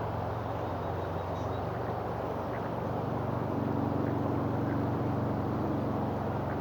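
A steady engine drone with a noisy rush over it, growing slightly louder about three and a half seconds in.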